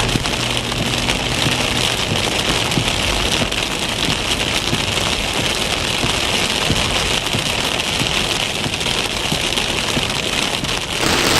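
Rain beating steadily on a car, a loud even hiss full of small drop ticks.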